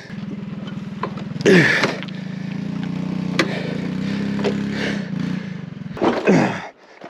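A mini bike's small engine running steadily nearby, then stopping about five and a half seconds in. Two short voice sounds and a sharp click are heard over it.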